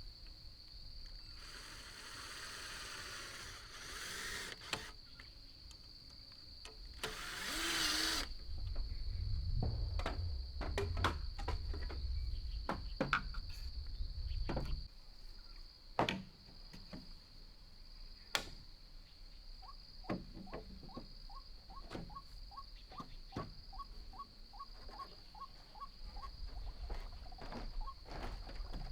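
A steady high-pitched insect drone, with scattered sharp knocks and two short bursts of rustling hiss in the first half. A run of quick, evenly repeated chirps comes in during the second half.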